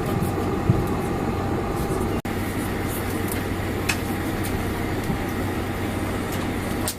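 Steady rumble and hum inside a Boeing 747-400 airliner cabin, with a few faint clicks. The sound drops out for an instant about two seconds in.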